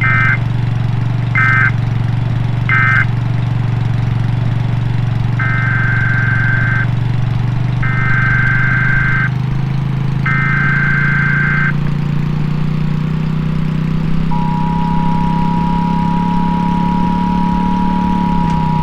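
Emergency Alert System / NOAA Weather Radio alert tones ahead of a tornado warning. First come three very short buzzy data bursts, then three longer data bursts (the coded SAME header). In the last few seconds the steady two-tone attention signal starts. A steady low engine hum runs underneath throughout.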